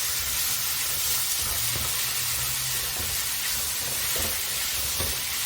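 Shredded pork stir-frying in hot oil with onion, shiitake mushrooms and garlic, a steady sizzle with a few faint knocks as it is stirred.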